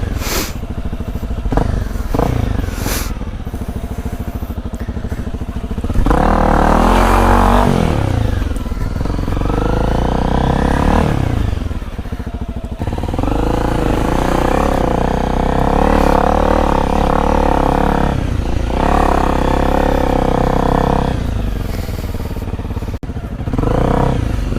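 Honda CRF250L's single-cylinder four-stroke engine working off-road, its revs rising and falling in repeated surges as the throttle is opened and closed, with a few clattering knocks from the bike over rough ground.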